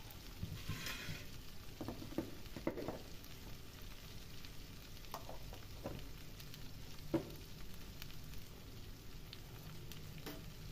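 Potatoes and mustard-pod pieces frying in oil in a kadhai over a low flame: a soft, steady sizzle with a few short clicks scattered through it.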